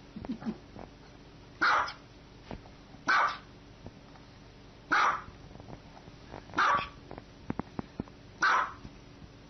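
Small dog barking: five short single barks, evenly spaced about a second and a half apart.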